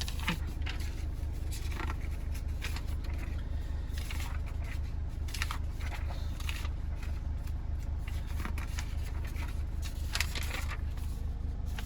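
Sheets of paper rustling and crackling as a stack of vehicle documents and certificates is leafed through, with irregular short scrapes and flicks. A steady low hum runs underneath.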